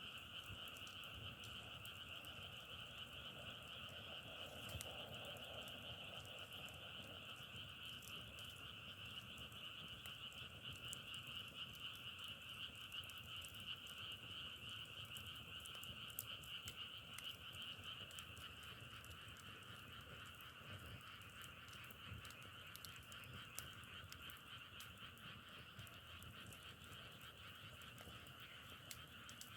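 A faint, continuous chorus of frogs calling, a dense rapid trilling at two pitches, with scattered faint ticks over it.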